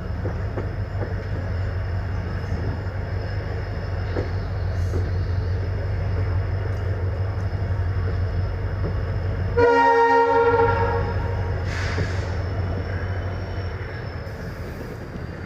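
Indian Railways train with ICF coaches running at speed: a steady low rumble, broken about ten seconds in by one loud train horn blast lasting about a second.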